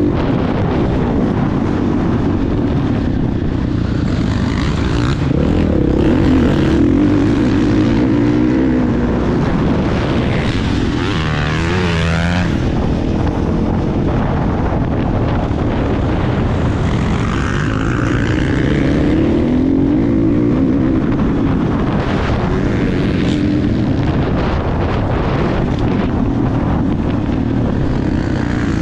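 Motocross bike engine running hard, revving up and down repeatedly as the throttle opens and closes.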